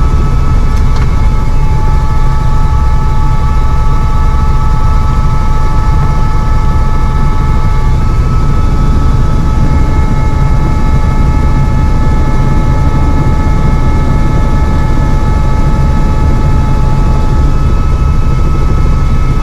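Helicopter turbine engine and rotors running steadily: a loud, even rumble with a constant high whine over it.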